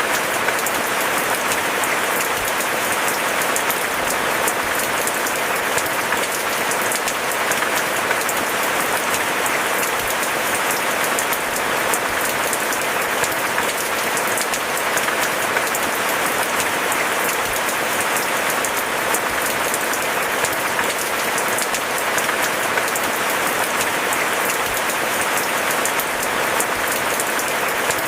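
Steady rain falling: a dense, even hiss of countless drops pattering, unchanging throughout.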